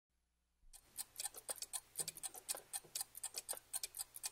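Quiet rapid ticking clicks, several a second, beginning under a second in after a near-silent start.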